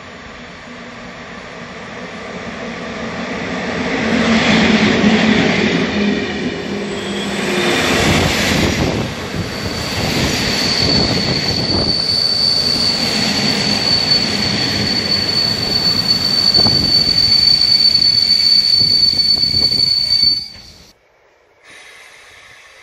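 A PKP EP07 electric locomotive and its passenger coaches running into the station, growing louder as they approach, then rumbling and clattering past. A steady high-pitched squeal from the wheels and brakes carries on for about ten seconds as the train slows to a stop. The sound cuts off abruptly near the end.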